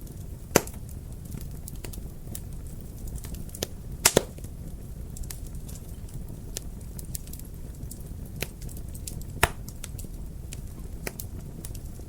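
Wood fire crackling in a fireplace: a low steady rumble of flames with scattered small crackles and sharp pops, the loudest about half a second in, a double pop about four seconds in, and another near nine and a half seconds.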